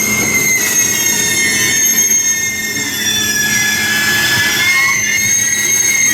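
Freight train's wheels squealing on the rails as the wagons roll slowly through the station tracks: several high, piercing squeal tones that waver and shift in pitch over a steady rumble.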